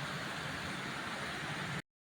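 Heavy rain pouring down, a steady hiss, cutting off abruptly near the end.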